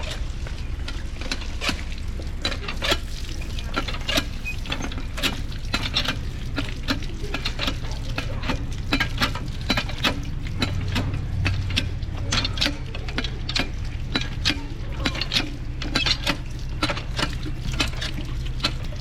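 A metal utensil clinking and scraping against a cooking pot in irregular strokes, over a steady low rumble.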